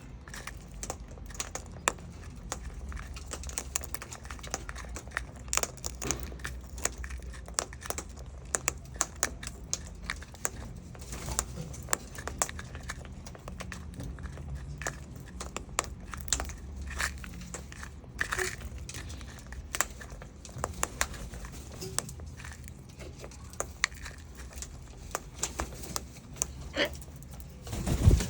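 Sulphur-crested cockatoo eating messily: irregular crunches, crackles and sharp clicks as its beak breaks and tears up food, over a low steady hum, with a louder knock near the end.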